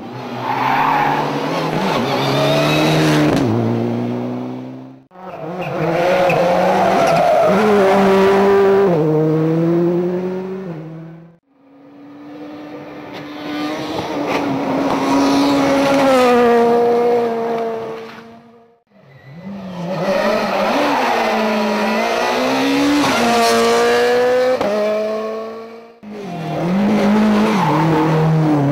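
Rally cars at full throttle on a stage, engines revving hard and climbing through gear changes. There are five separate passes, each one cut off abruptly.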